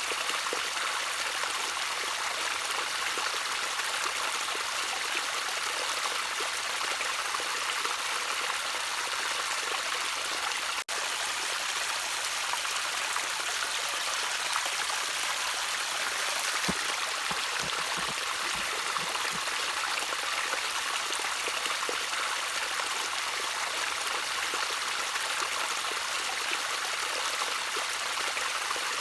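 Gently trickling stream water, a steady rushing hiss with a few small plops and drips around the middle. The sound dips out for an instant about eleven seconds in.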